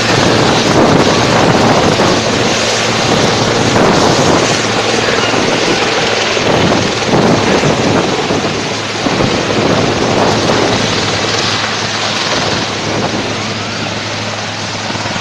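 Helicopter engine and rotor running, a loud steady whirring noise over a constant low hum, with wind buffeting the microphone; it eases slightly near the end.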